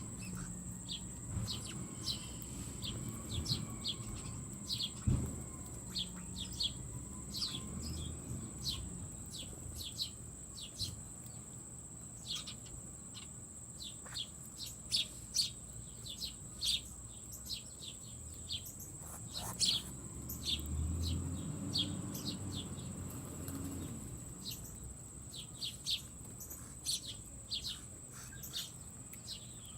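Birds chirping: a busy string of short, high chirps, several a second, over a steady high-pitched tone.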